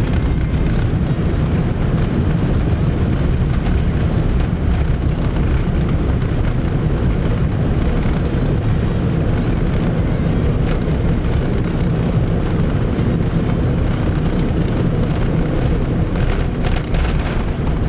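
Steady, loud cabin noise of an Airbus A380 airliner, a deep even rumble with no distinct events.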